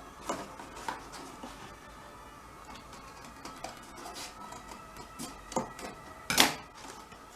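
Scissors snipping through thick card in a series of short, sharp clicks, with the loudest click about six and a half seconds in.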